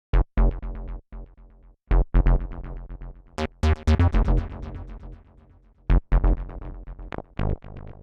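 Moog Messenger monophonic analog synthesizer playing short, plucky notes in a rhythmic pattern with a heavy bass, each note fading fast and echoed by a delay effect.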